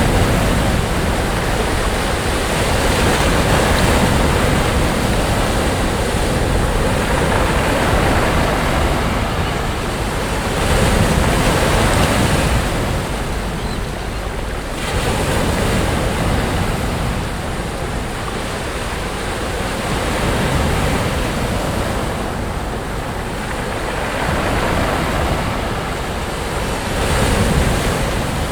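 Sea waves breaking and washing up the beach, the surf swelling and ebbing every few seconds.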